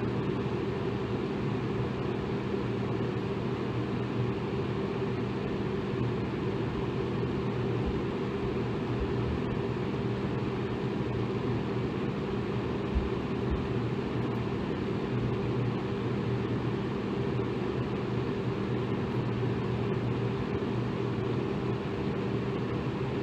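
Electric fan running steadily: an even whooshing rush of air with a low motor hum.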